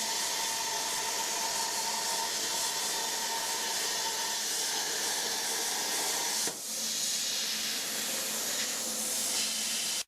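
CNC plasma cutter torch cutting 4 mm steel plate: a steady, loud hiss, dipping briefly about six and a half seconds in and cutting off suddenly at the end.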